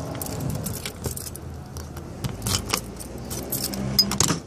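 Keys jangling amid a run of sharp clicks and rattles, the noise cutting off suddenly near the end.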